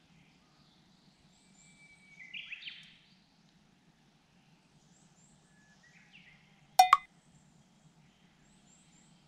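A bird singing two phrases, each a held whistle that breaks into a quick flourish, over a faint steady low hum. A sharp double click, much louder than the song, comes about seven seconds in.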